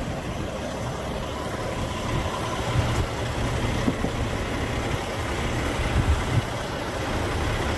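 Truck diesel engine idling steadily, with a few short thuds over it.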